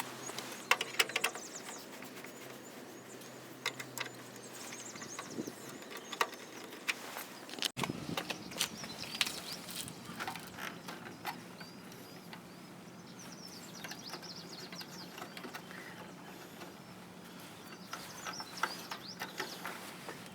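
Faint, scattered clicks and taps of hand work on an RV furnace as its sail switch is taken out and cleaned, with faint bird chirps in the background.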